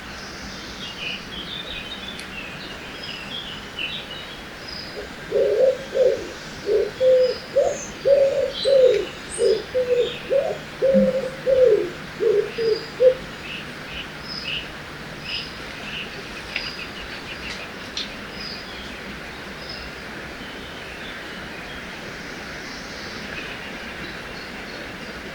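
Forest birdsong over a steady river rush: small birds chirp high and thin throughout. From about five seconds in, a low-pitched bird call repeats about two notes a second for some eight seconds, the loudest sound here.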